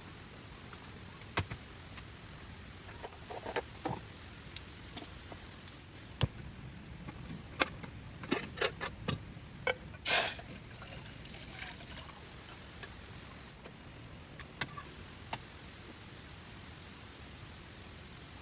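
Steady hiss of heavy rain with scattered sharp clicks and knocks, and a brief, louder rush of noise about ten seconds in.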